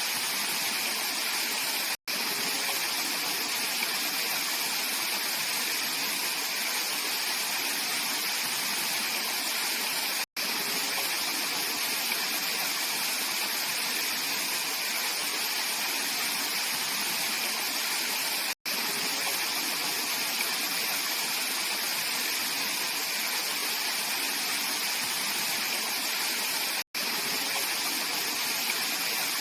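Mountain stream rushing steadily over rocks, a continuous bright splashing hiss of flowing water. Four very short silent gaps come about eight seconds apart.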